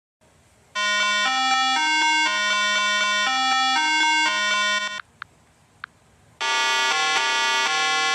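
A short electronic melody in a bright, buzzy tone, stepping from note to note about twice a second. It stops about five seconds in, two faint clicks follow, and a second phrase starts about a second later.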